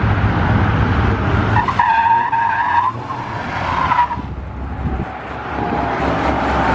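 A car doing a burnout as it leaves, engine revving and rear tyres squealing. The squeal is a high, wavering screech that starts about two seconds in, dies away about a second later and flares briefly again around four seconds.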